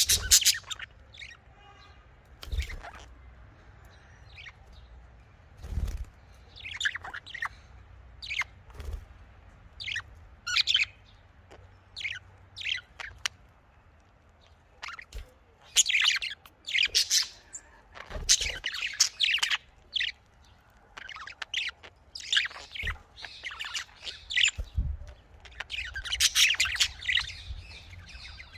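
Budgerigars chirping in short, sharp calls, scattered at first and coming thicker and faster in the second half. A few low thumps come in between.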